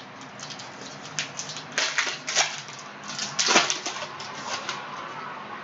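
Plastic-foil trading card pack being torn open and cards handled: a few short crinkling and rustling bursts, the loudest about two seconds and three and a half seconds in, with light clicks between.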